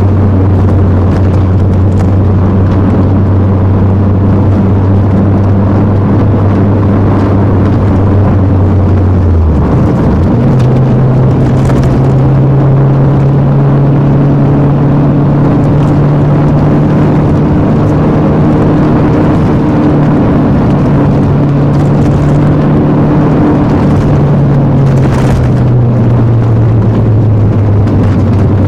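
Alfa Romeo 156 2.0 Twin Spark's four-cylinder engine pulling steadily under way, with tyre and road noise. About ten seconds in the engine note breaks off for a moment and comes back at a higher pitch, then eases down again near the end.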